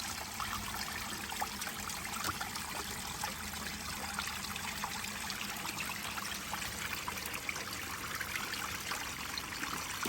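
A small waterfall trickling and splashing steadily, with a constant patter of droplets.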